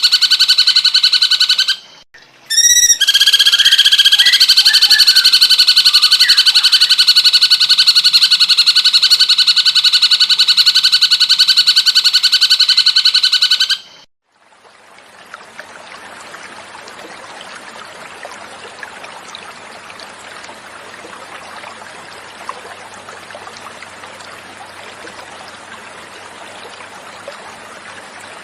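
A recorded cucak cungkok call: a loud, fast, buzzing trill held at a steady pitch, broken briefly about two seconds in, which stops abruptly about halfway through. Then a quieter steady sound of running water follows.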